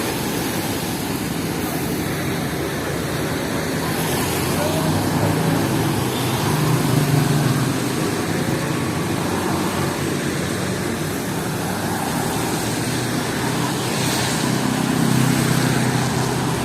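City street traffic: motor vehicles running and passing, the engine hum swelling about halfway through and again near the end.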